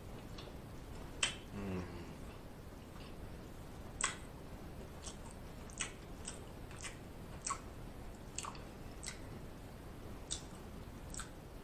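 Close-miked eating: sharp wet mouth clicks and lip smacks as food is chewed, coming irregularly about once a second, with a short hummed "mm" about one and a half seconds in.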